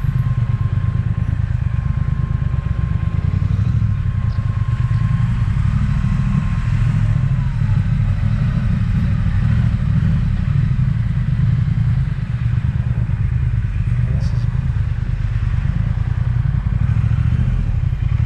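Triumph Speed Twin's parallel-twin engine running under way, a steady low, fast-pulsing note. A faint thin whistle holds until about seven seconds in, then slides down and fades.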